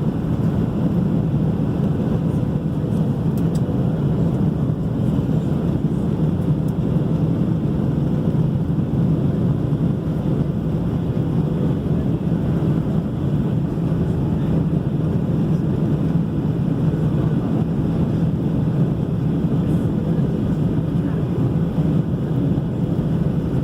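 Steady low drone of a passenger airliner in flight, engine and rushing-air noise as heard in the cabin, with a faint steady hum.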